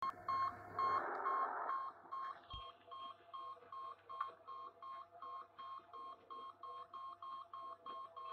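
Electronic beeping, one short high beep repeating evenly about two and a half times a second, like an alarm. A louder rushing noise lies under it for the first two seconds or so.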